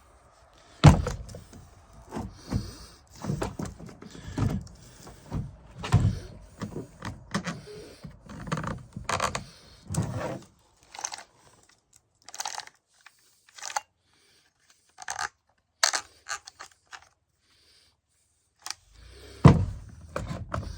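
Chainsaw bar, chain and cover being handled and fitted: a run of metal clunks, rattles and scrapes for about ten seconds, then a few sharp clicks and a loud knock near the end.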